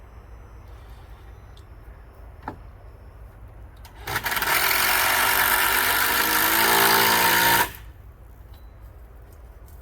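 A power tool runs for about three and a half seconds, starting suddenly about four seconds in and cutting off sharply, its motor pitch rising toward the end. A single click sounds a little before it.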